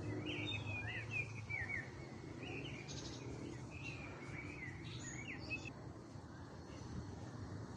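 Songbirds chirping in quick, bending notes over a steady low background rumble; the chirping stops about six seconds in.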